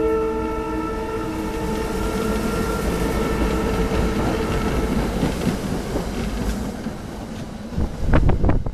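SEPTA regional rail electric train sounding its multi-note horn for about two seconds, then rushing past close by with steady wheel and air noise. Near the end, a short burst of loud knocks and rumble.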